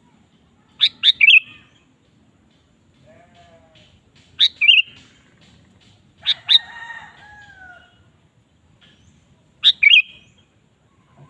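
Sooty-headed bulbul (kutilang) calling: short bright chirping phrases, each a quick falling note followed by a brief warble, four times about three seconds apart. Around the middle a fainter, longer, lower gliding call sounds under them.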